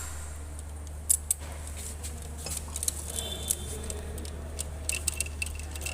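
Scattered sharp metallic clinks and taps of steel hand tools and head bolts being handled, irregular and a few at a time, over a steady low hum.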